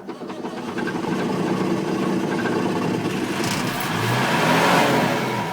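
Massey Ferguson 1200 tractor's diesel engine on a cold start at minus five, firing up and running, getting louder about four to five seconds in.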